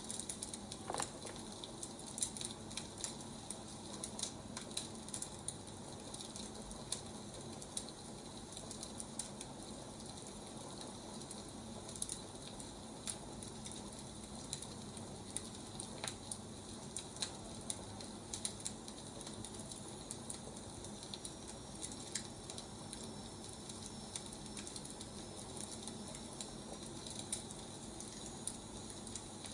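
Wood fire burning with steady hiss and irregular crackles and pops of burning firewood.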